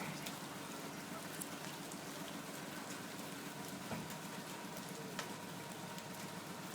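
Steady rain falling at the tail end of a hailstorm, with a few sharp ticks of impacts about four and five seconds in.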